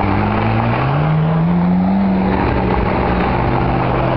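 McLaren MP4-12C supercars with twin-turbo V8 engines driving slowly past; the engine revs up about a second in, then settles to a steady low note.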